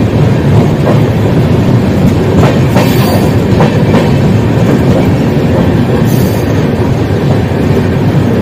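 Express passenger train running, heard from an open coach door: a loud, steady rumble of wheels on rail, with a few short sharp clacks as the wheels cross rail joints and points, and brief high screeches around the middle.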